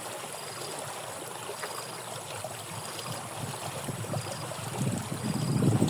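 Water running in a drainage ditch, with splashing and churning in the water building up near the end. A faint short high beep repeats about once a second.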